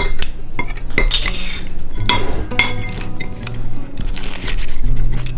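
Dishes and cutlery clinking as food is plated, with a series of short, irregular knocks and clinks of utensils against plates.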